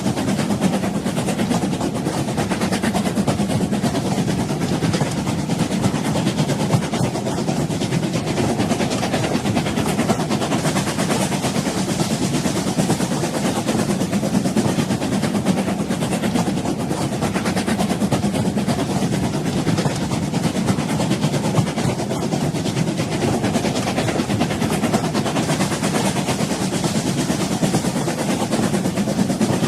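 Old train in motion, running steadily: a continuous, even rolling noise with no let-up.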